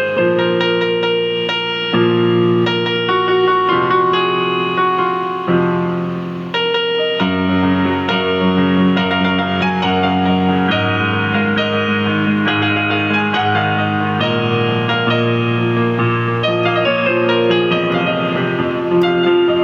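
Synthesizer played with a piano-like voice: low chords held for a couple of seconds each under a melody of quick, short notes, with a brief dip in level about six seconds in.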